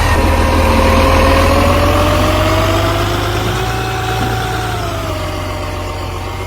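Garbage truck engine running, with a steady low hum and a whining tone that slowly rises and then falls back. The sound grows gradually quieter over the second half.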